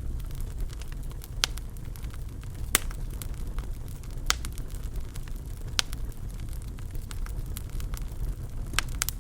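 Wood fire burning in a fireplace: a steady low rumble of the flames with sharp pops and crackles every second or so, a quick double pop near the end.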